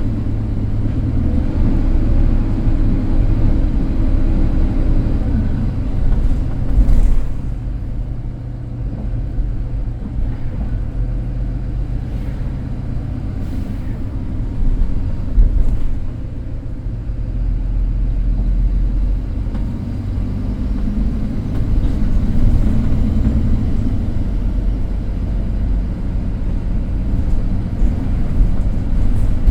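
Cabin sound of an ADL Enviro300 single-deck bus under way: diesel engine drone with the whine the title calls a 'hoover', and the interior rattling and knocking now and then. The engine note eases off about eight seconds in and builds again later.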